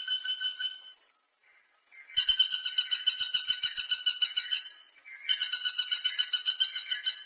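Woodpecker calls: fast, even rattling trills of about nine notes a second. One trill ends about a second in, and two more of about two and a half seconds each follow after short gaps. These are calls, not drumming on wood.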